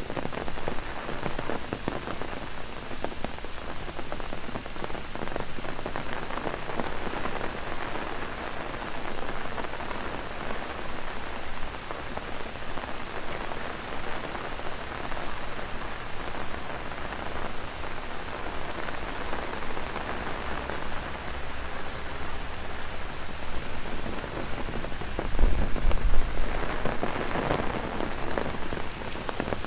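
Heavy rain falling and pattering on an umbrella, under a steady high-pitched drone of cicadas. A brief louder low rumble swells about 25 seconds in.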